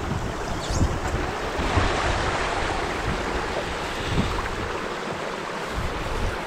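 Creek water sloshing and splashing around a kayak, with a few irregular low bumps.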